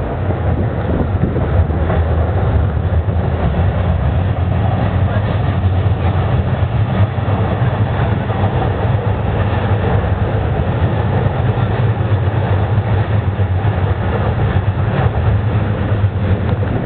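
Electric commuter train running over an elevated railway viaduct: a steady low rumble.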